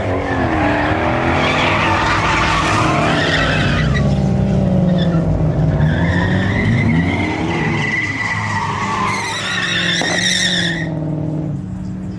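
Truck doing a burnout: the engine revs up and down several times while the tyres squeal. About halfway in the squeal builds into a high, wavering screech, which cuts off about a second before the end.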